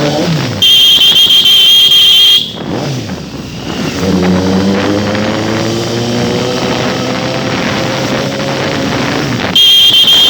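Suzuki GSX-S750's inline-four engine through a loud aftermarket exhaust, running with its pitch falling and then slowly rising as it pulls. A loud, steady, high-pitched horn-like tone sounds twice: for about two seconds near the start, and again near the end.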